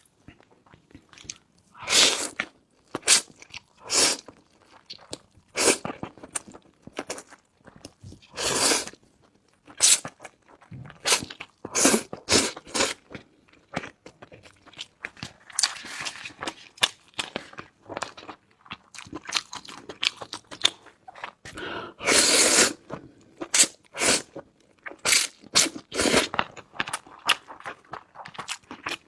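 Close-miked mouth sounds of someone eating fried noodles: irregular wet clicks and smacks of chewing, broken by a few longer noisy sounds about a second long.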